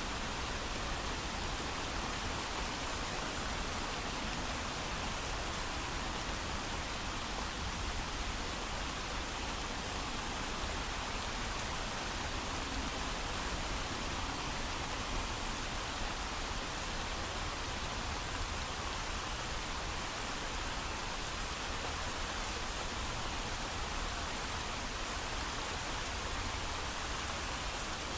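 Steady heavy rain, an even hiss with no thunder and no distinct drops or changes.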